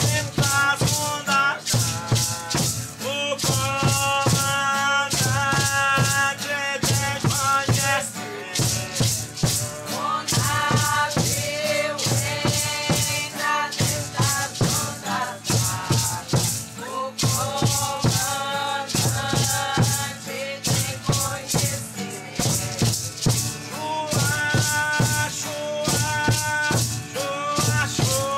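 Singing voices with hand rattles shaken to a steady beat.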